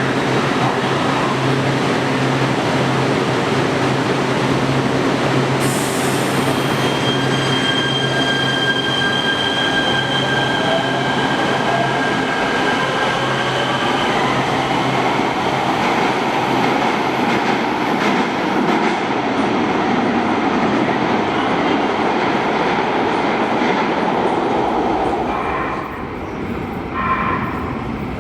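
Metro train running through an underground station, with loud steady wheel and rail noise. A thin high squeal is held for several seconds in the middle, and a whine rises in pitch as it goes.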